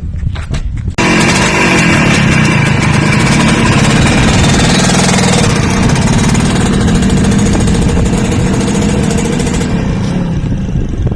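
Engine idling with a low rumble, then suddenly revved hard about a second in and held at high speed for about nine seconds, easing off near the end.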